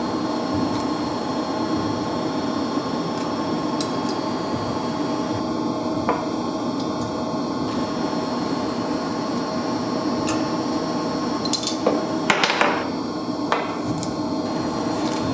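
Steady hum of plant-room machinery, with a few sharp metallic clicks and knocks from tools or parts being handled, clustered about twelve seconds in.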